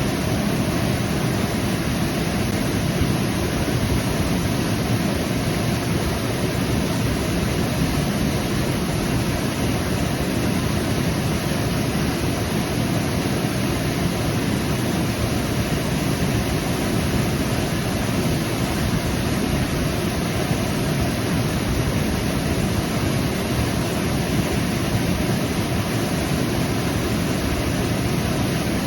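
Waterfall cascading: a steady, dense rush of falling water with no breaks.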